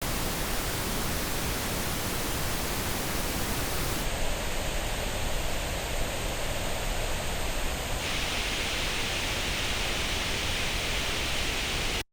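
Pink noise test signal played through earbuds and recorded on an artificial ear simulator. It holds steady but changes tone colour abruptly twice, about four and eight seconds in, as playback switches between earbud recordings, the last part sounding brighter in the upper mids.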